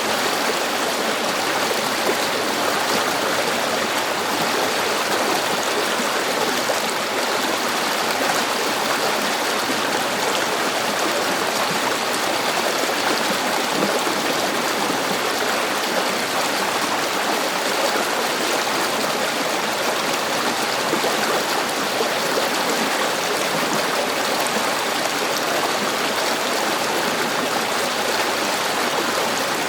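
River water flowing and babbling over stones, a steady rushing noise.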